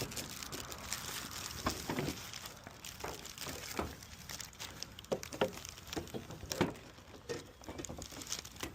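Hands working a plastic headlight assembly and its fittings into place: irregular light clicks, taps and rustling, several sharper knocks about two, four and five and a half seconds in.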